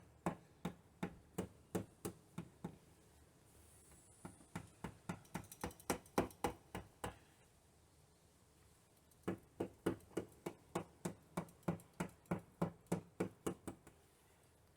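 Hammer tapping push-on rubber edging trim down onto the edge of a kit car body panel to seat its metal clips. The taps are light and evenly spaced, about three or four a second, in three runs with short pauses between them.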